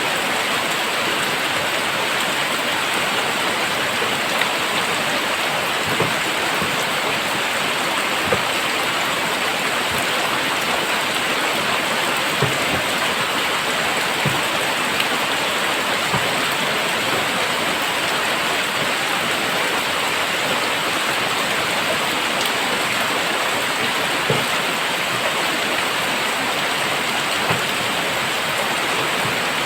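Very heavy rain falling steadily, an even downpour hiss, with a few louder single drops or drips ticking now and then.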